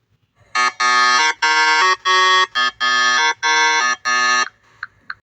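A horn sounding a run of seven loud notes of changing pitch, each about half a second long with short gaps between. Two faint short chirps follow near the end.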